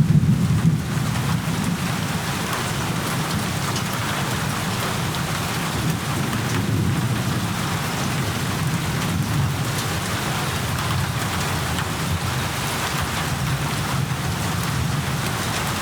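Steady rain falling in a thunderstorm, an even hiss of drops over a low rumble of thunder that is loudest at the very start and then eases off.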